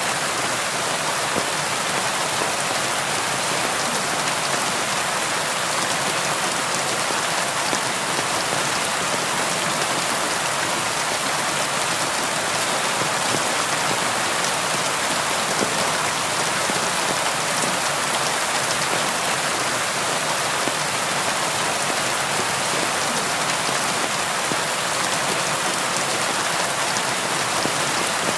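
Steady rain pattering on a window: an even, unbroken hiss of dense drops that holds level throughout.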